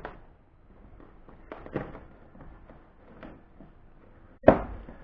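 A cardboard shipping box being handled, with light knocks and rustles, then one sharp thump near the end.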